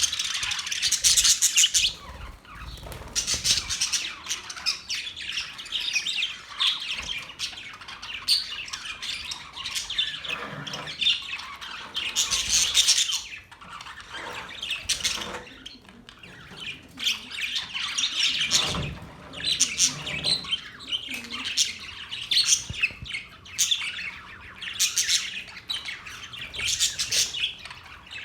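Several pet budgerigars chattering, with dense, overlapping squawks, chirps and warbles coming in bursts.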